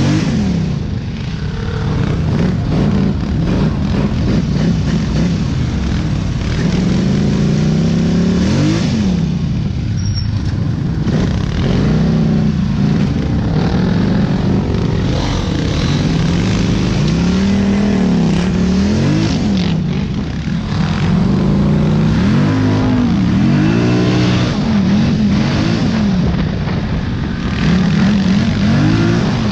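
Dirt bike engine being ridden, its pitch climbing and dropping again and again as the throttle is opened and closed, over a steady rushing noise.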